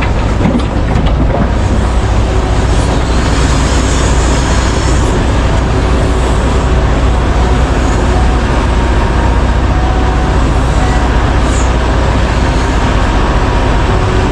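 A large mining excavator's diesel engine running steadily: a loud, deep, continuous drone with a faint whine above it.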